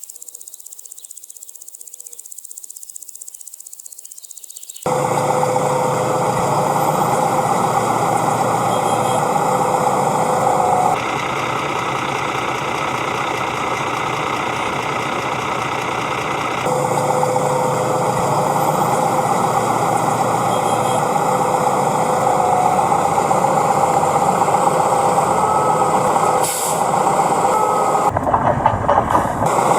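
Steady mechanical running of a vehicle engine or small motor, starting abruptly about five seconds in and running on with a couple of sudden jumps in level and tone.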